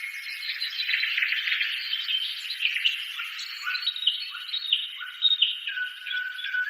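Many small birds chirping and twittering at once, a dense chorus of short whistled notes and quick pitch slides.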